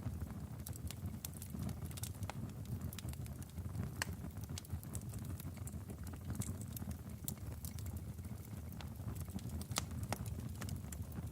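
Log fire burning in a fireplace: a steady low rumble of flames with frequent, irregular sharp crackles and pops from the burning logs.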